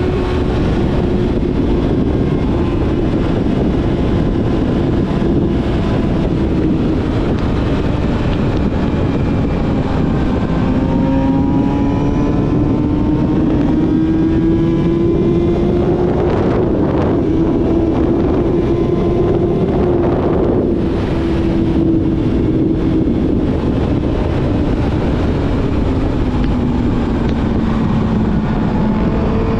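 Yamaha YZF-R6 inline-four with a full aftermarket exhaust system, running at steady, moderate revs. The engine note climbs slowly through the middle and eases down near the end, with wind rushing over the microphone.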